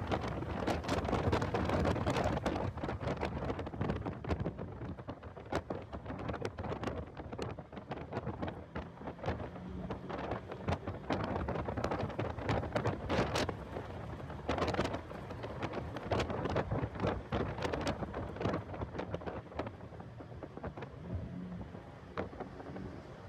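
Heavy wind noise buffeting the microphone of a car lapping a racetrack: a dense rumble with frequent sharp crackles, the car's engine and road noise faint beneath it.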